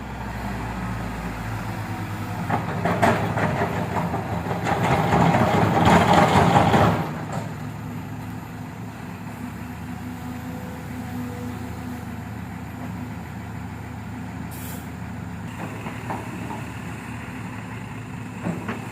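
Diesel truck engine working: it grows louder over the first seven seconds, drops away abruptly, then runs on at a steady, lower level.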